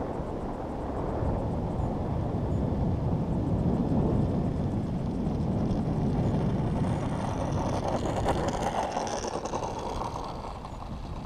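Radio-controlled F-16 model jet's motor passing on its landing approach: a rushing noise that swells to its loudest mid-way and fades near the end, mixed with wind rumble on the microphone.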